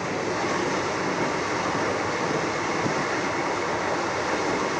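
Saryu Yamuna Express passenger train running, a steady rumble of wheels and carriages.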